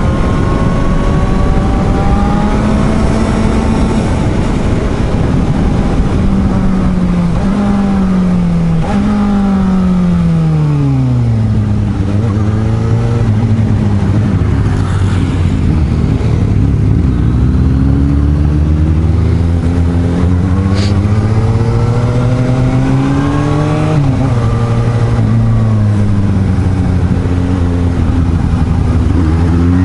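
Suzuki GSR750's inline-four engine under way, its revs rising and dropping with gear changes: two quick upshifts about seven and nine seconds in, a long slowdown to a low steady beat, then climbing again with another shift about twenty-four seconds in. A steady rush of wind runs underneath.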